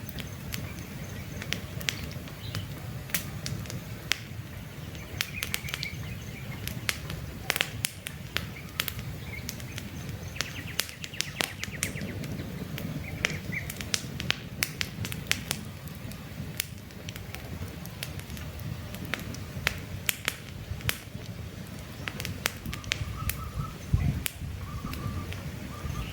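Wood campfire crackling, with frequent sharp pops and snaps over a steady low rumble of the flames. Birds chirp briefly now and then.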